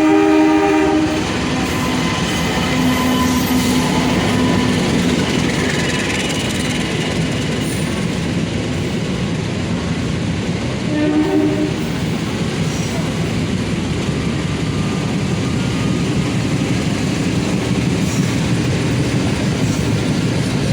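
A train running through the station with a steady rumble, its horn sounding briefly twice: once at the start and again about halfway through.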